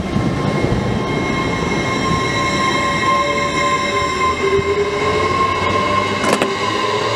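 LNER Class 801 Azuma train passing along the platform: a steady rumble of wheels on the rails with several constant high tones and a lower tone that slowly drifts in pitch. There is one sharp click about six seconds in.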